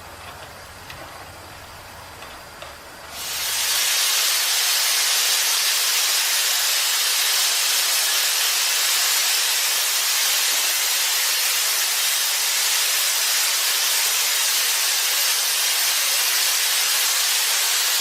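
Live steam escaping with a loud, steady hiss that starts suddenly about three seconds in, as steam is let through from the boiler.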